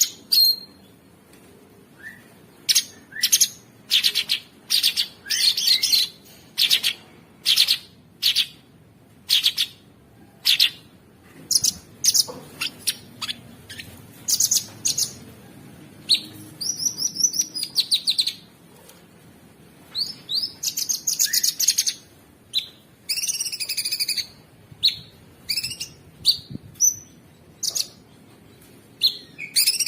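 Cucak sungkok singing in a loud, continuous run of short sharp notes, broken by bursts of rapid chattering trills, with brief pauses between phrases.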